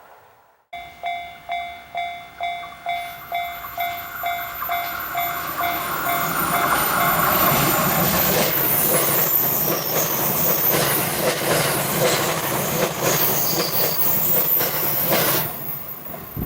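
Japanese level-crossing warning bell ringing, about two strikes a second, starting about a second in. From about six seconds an E353 series electric limited express train comes up and runs past loudly for about nine seconds, drowning out the bell, and the passing noise drops away near the end with the bell heard again.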